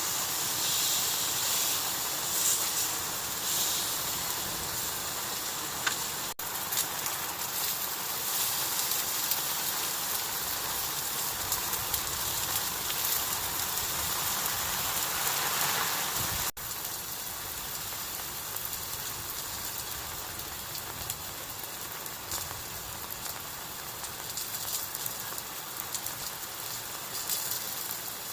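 Heavy rain falling in a steady hiss, cut off sharply for an instant twice.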